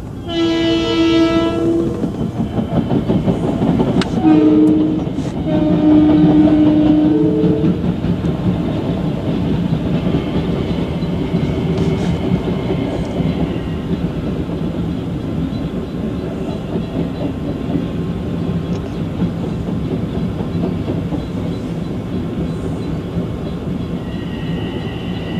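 Long Island Rail Road train arriving: its multi-note horn sounds three times (long, short, long), followed by the steady rumble and clatter of the cars rolling past. A high steady squeal comes in near the end as the train slows into the station.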